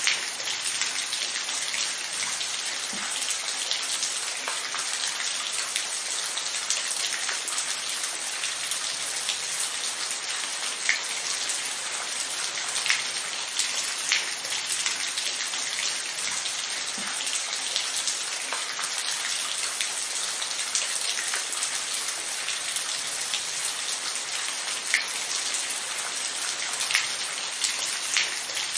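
Steady rain falling, an even hiss with individual drops tapping sharply now and then.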